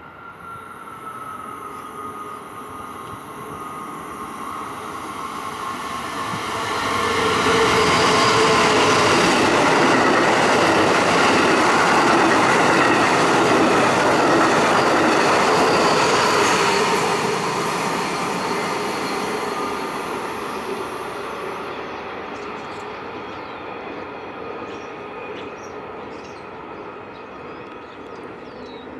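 A train passing close by on the tracks. The wheel and rail noise builds over about seven seconds, holds loud for about ten, then slowly fades away.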